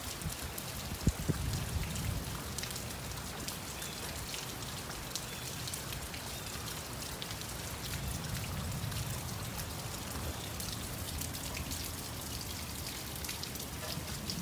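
Steady summer rain: many separate drops clicking over a constant hiss, with a few louder drop hits about a second in.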